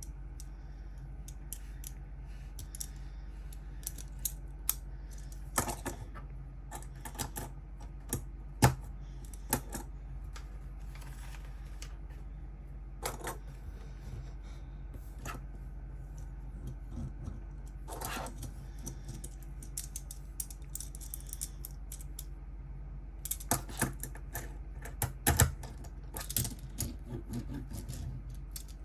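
Small plastic Lego pieces clicking and clattering as they are handled, with irregular sharp clicks and short bursts of rattling. A steady low hum runs underneath.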